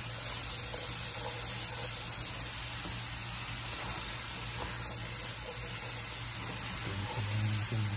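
Diced eggplant sautéing in a frying pan, a steady sizzling hiss as it is stirred with a wooden spatula, over a low steady hum.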